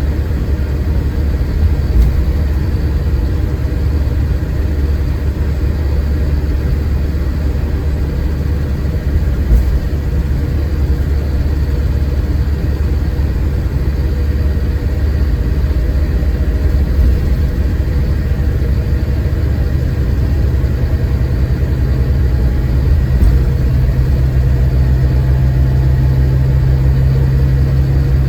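Ride sound inside a Scania K410IB coach: the engine running under a steady low rumble, with a few light knocks. About twenty seconds in, a steady low hum sets in and holds.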